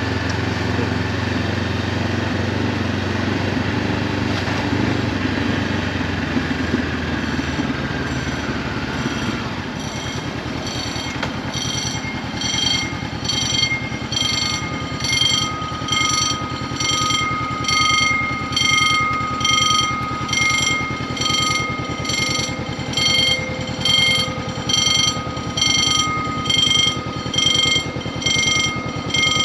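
Honda CB500F parallel-twin with an Akrapovic exhaust running, its pitch falling as the bike slows in the first several seconds, then ticking over at idle. Partway through, a regular electronic beeping starts up over the engine, a little more than one beep a second.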